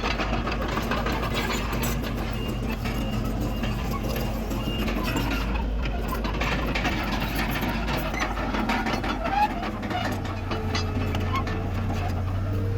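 Diesel engine of heavy earthmoving machinery running steadily, with scattered clanks; its low note shifts about ten seconds in.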